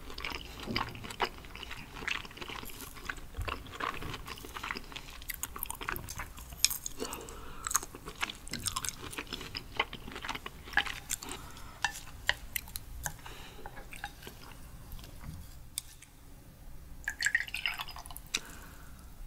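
Close-up chewing of raw sweet shrimp, a run of many small mouth clicks and smacks. Near the end, soju is poured from a glass bottle into a small glass.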